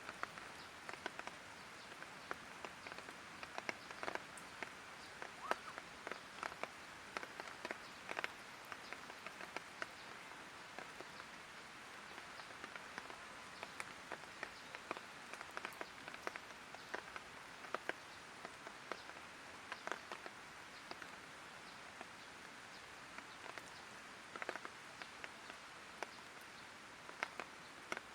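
Light rain falling: a soft, steady hiss with many irregular drips ticking on nearby surfaces.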